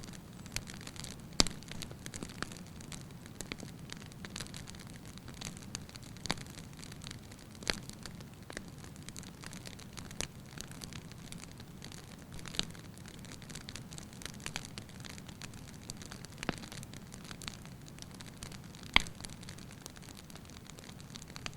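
Wood fire crackling: irregular sharp pops and snaps over a steady low rustle of flame, with louder pops about a second and a half in and near the end.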